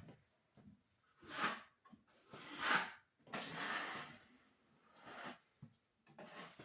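Drywall knife scraping joint compound across a wall patch over mesh tape: a series of about six scraping strokes, the loudest about a third of the way in.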